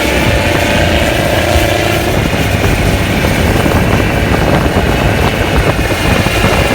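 Kubota farm tractor's diesel engine running hard and loud, with a rapid, even beat of exhaust pulses.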